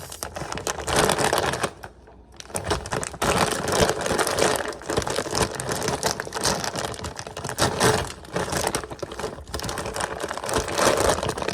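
Cookies being taken out of their crinkly plastic packaging and dropped into a cookie jar: a dense run of rustling and small clattering clicks, with a brief pause about two seconds in.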